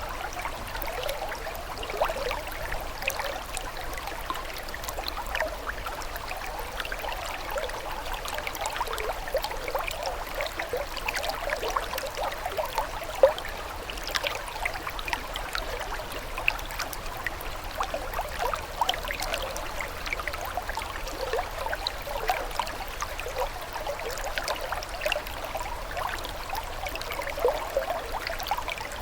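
Flowing water trickling steadily, with a dense scatter of small splashes and drips.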